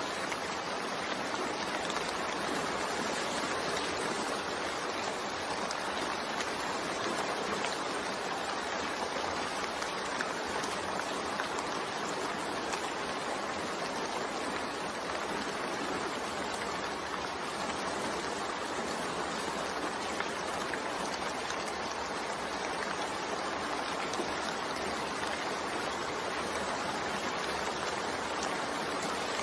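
Steady rain falling, an even hiss of water that holds at one level without letting up.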